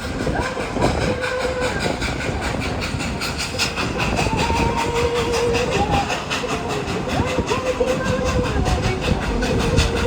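Steam-hauled train heard from an open passenger car, rolling and clattering on the track, with a high squeal that wavers and glides in pitch as it goes.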